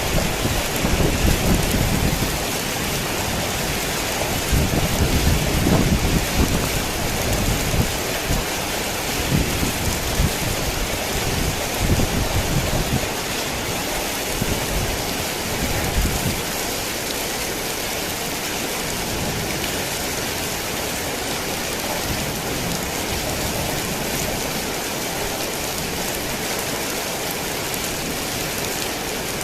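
Steady heavy rain, with thunder rumbling in repeated low surges through the first half, dying away a little past the middle and leaving only the rain.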